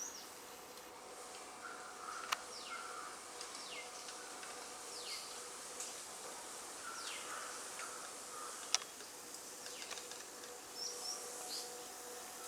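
Forest birds calling: a string of falling whistles every second or two, with softer chirps lower down, over a steady high hiss. Two sharp clicks stand out, one early and one past the middle.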